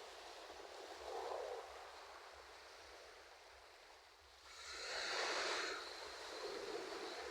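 Ocean waves washing in: a small wave about a second in, a lull, then a larger wave breaking and hissing up the shore past the midpoint.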